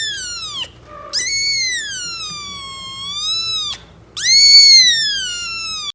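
A cat giving long, drawn-out meows: one ending just after the start, then two more, each lasting two seconds or so and wavering up and down in pitch. The last is cut off abruptly.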